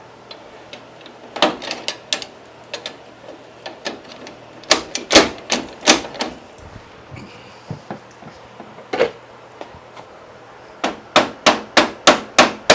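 Hammer blows on steel while a stuck steering pinion gear is being driven off its shaft. The blows are scattered at first, then a quick even run of about three strikes a second near the end.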